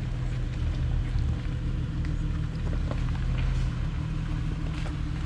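Jeep engine running steadily at low revs, a constant low hum, with a few faint clicks over it.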